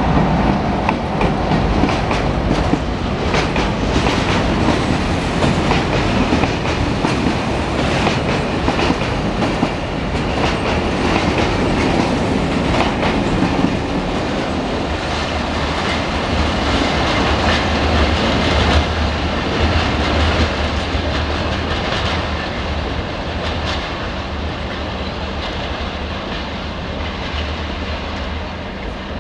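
Short freight train of tank wagons hauled by a BB 75000 diesel locomotive rolling past: a steady low rumble with the clickety-clack of wheels over rail joints, easing off a little toward the end as the train draws away.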